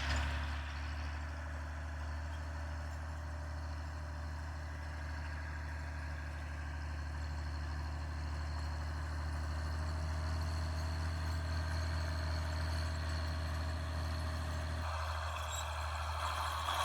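Fiat 980 DT tractor's diesel engine running steadily with a deep hum. Near the end its sound changes, the low mid part dropping away and a brighter rattling part coming up.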